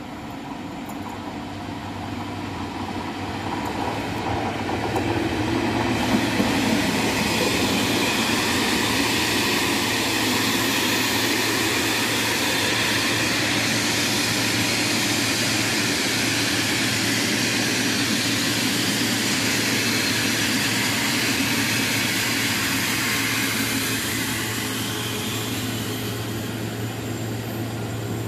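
Electric passenger train passing close on the adjacent track: wheel and rolling noise on the rails builds over a few seconds, holds steady for most of the pass, then fades near the end, with a steady low hum underneath.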